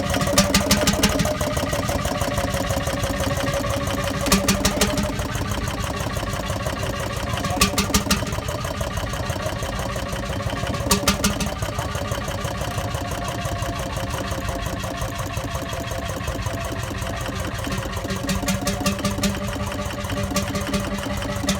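Stationary engine running steadily with a rapid, even beat. Every few seconds there is a short cluster of louder, sharper strokes.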